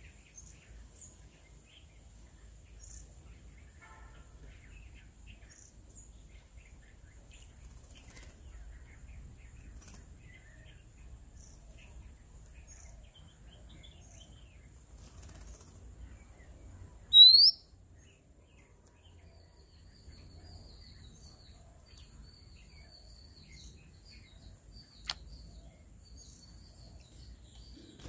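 Birds calling in a garden: scattered faint high chirps, and one loud, short whistle that rises sharply in pitch about two-thirds of the way through. A faint high trill runs through the last third, and a single sharp click comes near the end.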